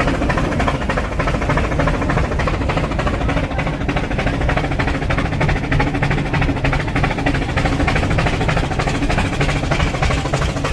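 Rack-railway steam locomotive working uphill: a rapid, steady run of exhaust puffs and mechanical clatter.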